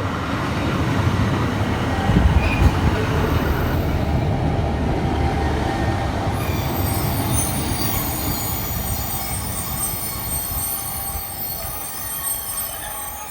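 Class 150 Sprinter diesel multiple unit running into the platform with a low rumble of engine and wheels. From about six seconds in, a high squeal of several tones sets in as it brakes to a stop.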